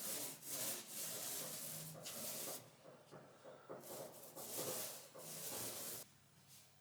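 Paintbrush strokes of undercoat on a boat's interior wall: a run of scratchy, rubbing strokes, the brush running short of paint. The strokes stop suddenly about six seconds in.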